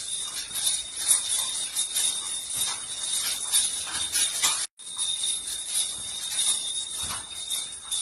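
Small hard objects rapidly jingling and clinking, a dense rattle of tinkles that runs on with a faint steady whistle above it. The rattle is typical of household things shaken by an earthquake. It cuts out for an instant a little past halfway, then carries on the same.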